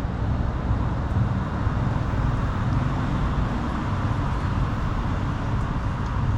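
Motorcycle riding along the road: a steady low engine rumble mixed with wind and road noise.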